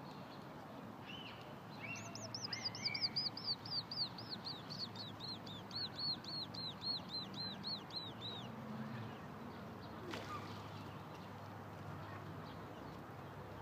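A bird calling: a few short chirps, then a long run of about two dozen quick high notes, roughly four a second, that drift slightly lower in pitch before stopping about two-thirds of the way through.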